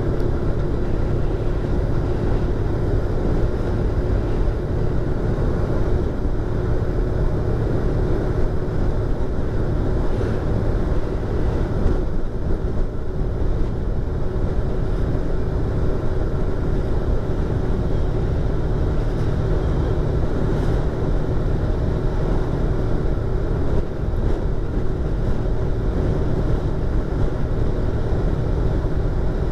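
Yamaha YZF-R25's 249 cc parallel-twin engine and exhaust running at a steady speed, heard from inside the rider's helmet over the rush of riding wind.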